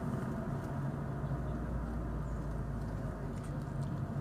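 Fiat Doblò camper van driving slowly, heard from inside the cab: a steady low engine hum with road noise.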